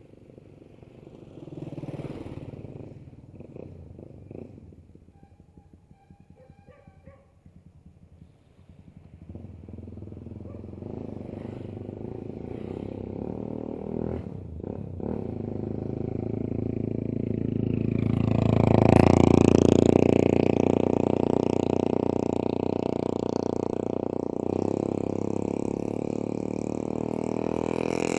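A motor vehicle's engine grows steadily louder over about ten seconds, is loudest about two-thirds of the way in, and keeps running close by to the end.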